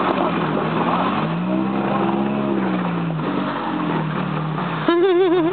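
Off-road vehicle engine working on the trail, its pitch rising then falling once as it revs. Near the end a louder, wavering pitched sound comes in.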